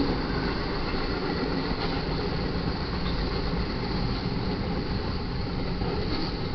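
Cars of a BNSF intermodal Z train rolling past, their wheels giving a steady rumble on the rails.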